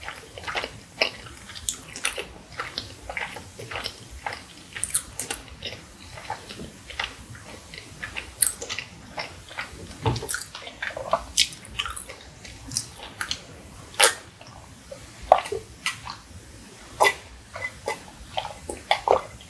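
Close-miked mouth sounds of chewing a last mouthful: irregular wet clicks and smacks, with gulps from a glass of water near the end.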